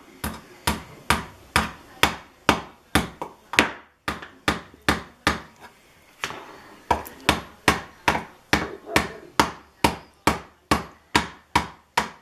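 Hammer driving nails into a wooden birdhouse, a steady run of sharp blows at about two to three a second. About four seconds in there is a pause of two or three seconds before the steady hammering resumes.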